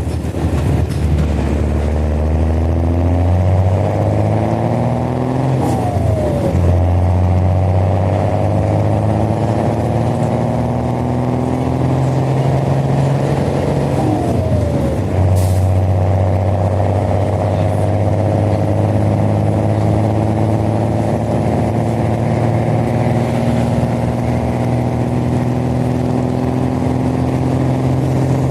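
Mercedes-Benz OH-1420 bus diesel engine with a free-flowing open exhaust, pulling under load as the bus accelerates. The engine note rises steadily, drops briefly at a gear change about six seconds in and again about halfway through, then climbs again.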